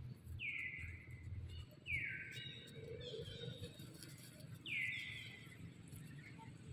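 Bird calls outdoors: about four short, high chirps, each sliding down in pitch, spaced a second or more apart over a low outdoor rumble.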